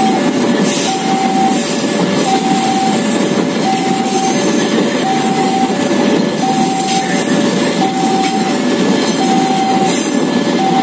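Container freight train rolling through a level crossing: a steady rumble of wagon wheels on the rails. Over it the crossing's warning signal sounds without a break, a repeating two-tone ding-dong of a higher and a lower note, about one pair every second and a half.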